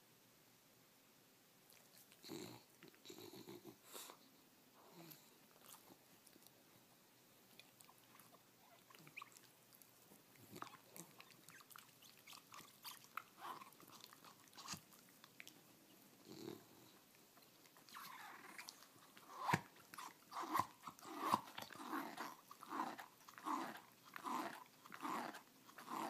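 A dog chewing with wet mouth sounds, scattered at first, then louder and in a run of about two a second for the last several seconds.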